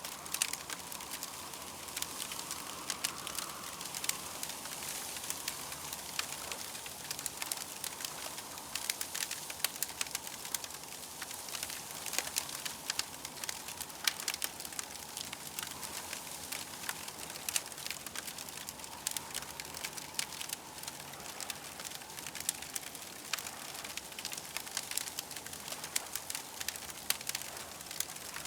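Campfire crackling steadily, with many small sharp pops and snaps over a soft continuous hiss.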